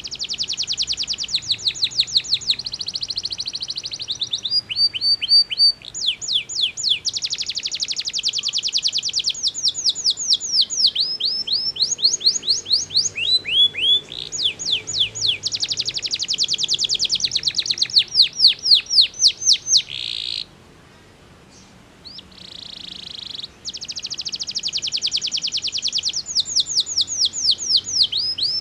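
Domestic canary singing loudly in long rolling tours: fast buzzy trills alternating with runs of quick repeated down-slurred notes. The song breaks off for a second or two about two-thirds of the way through, then resumes.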